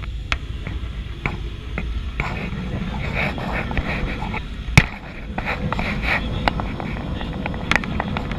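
Cabin noise in a Boeing 737-800 airliner on approach: a steady low rumble of engines and airflow, with scattered light clicks and knocks and one sharp knock about five seconds in.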